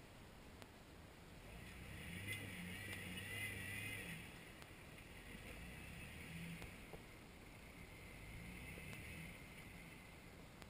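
Faint off-road Jeep engine revving up in swells as it crawls over rocks, loudest about two to four seconds in and easing off twice more later.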